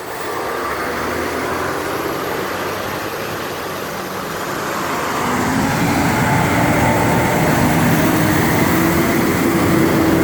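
Large emergency vehicle's engine and road noise as it drives by, growing louder about halfway through with a steady engine tone that rises slowly in pitch.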